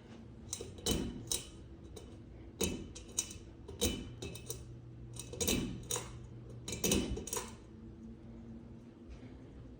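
A 60-inch Kichler Canfield ceiling fan with a faint steady hum. Over it come a series of irregular sharp clicks and short rattles, bunched through the first three-quarters and then fading out.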